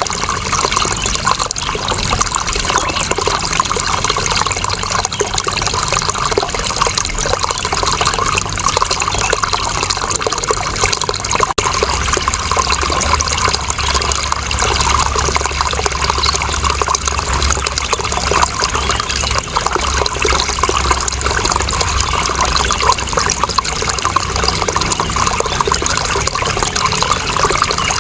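Water flowing and trickling steadily, with a deeper rumble joining about halfway through.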